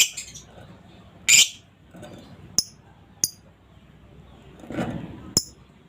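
Female lovebird calling in short, shrill chirps and squawks, spaced irregularly: one about a second and a half in, sharp clicks a little after two and a half and three seconds, and a fuller squawk followed by a click near five seconds.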